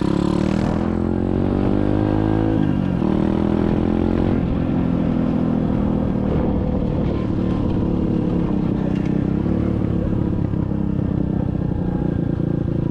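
SSR 125cc dirt bike's single-cylinder engine running under way. Its pitch climbs over the first couple of seconds, drops suddenly at a gear change, climbs again, then holds fairly steady.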